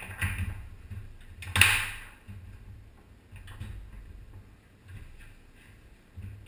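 Foosball play on a Tornado table: the ball and rods knocking in a run of sharp clacks, with one loud bang about one and a half seconds in.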